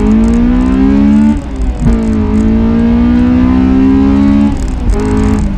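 Honda S2000's 2.0-litre F20C inline-four, breathing through a J's Racing 60RS exhaust and test pipe, accelerating through the gears. The note climbs, drops at an upshift about a second and a half in, climbs again and drops at another upshift near the end. Heard from the open cockpit.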